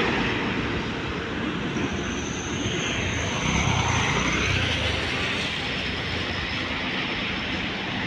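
Road traffic: a motor vehicle passing on the highway, engine and tyre noise steady, with a low engine rumble swelling about halfway through.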